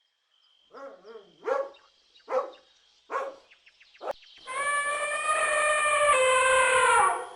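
Animal calls: several short calls, a quick run of clicks, then one long drawn-out call that falls in pitch at its end.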